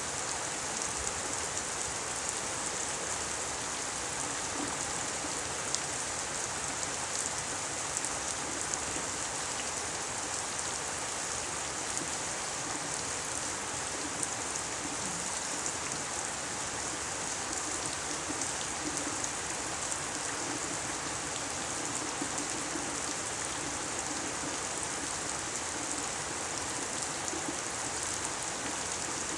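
Steady rain falling, a continuous even hiss with occasional sharper drop ticks.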